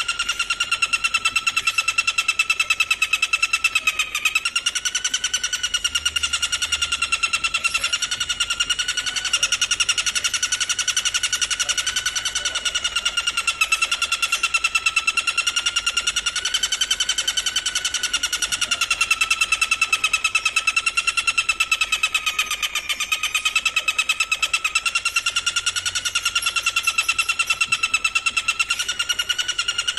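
A singing insect trilling without a break: a rapid, even pulsed buzz at a steady, slightly wavering pitch, used as bird-training material.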